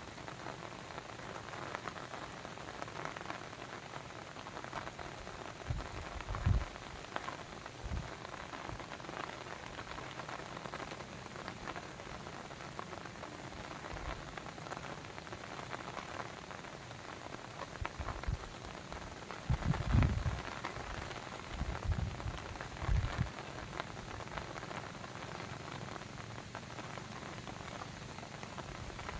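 Steady dense patter of water, with a few short low thumps, the loudest about twenty seconds in.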